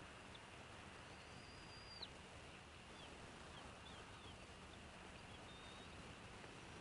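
Faint high, thin bird calls over a steady outdoor hiss: one held whistle about a second in that drops away, then a few short falling chirps.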